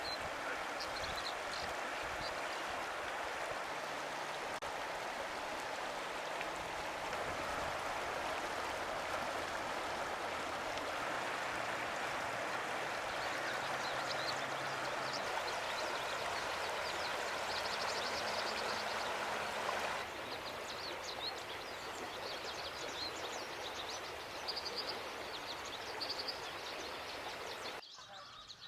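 Rushing stream water, a steady hiss, with small birds chirping and trilling high above it. The water noise drops abruptly about two-thirds of the way through and falls away again near the end.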